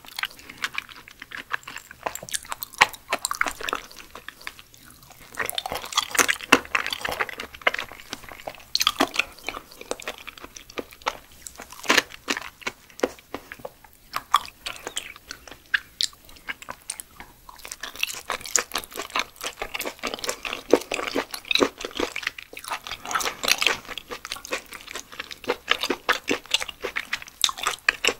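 Close-miked eating sounds of raw yellow stingray liver and chewy stingray sashimi: wet chewing with many small clicks and smacks, broken by a few short pauses.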